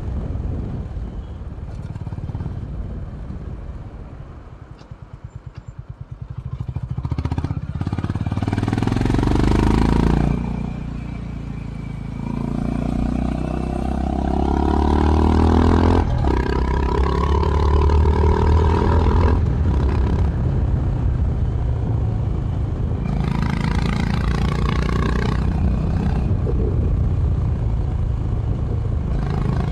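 Honda H'ness CB350 RS single-cylinder engine through its stock exhaust, heard onboard: it eases off to a low, slow thump, then accelerates with a rising pitch through two upshifts and settles into a steady pull at speed. A rushing hiss swells over it twice.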